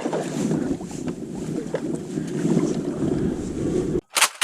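Kayak under way on the water: a steady rumble of water and wind noise against the hull and microphone, with small knocks, cut off abruptly about four seconds in, followed by a brief loud click.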